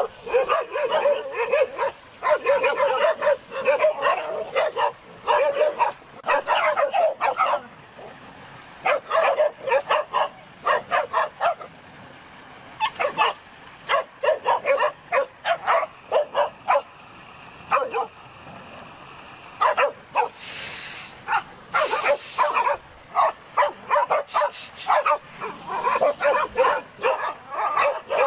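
Dogs barking in rapid runs of short barks, broken by brief pauses. Two short hissing bursts come about twenty seconds in.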